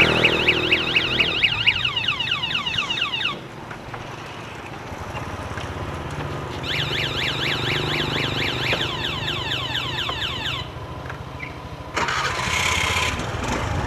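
A small motor vehicle's engine running, with two stretches of fast, repeating high warbling chirps over it and a short noisy burst near the end.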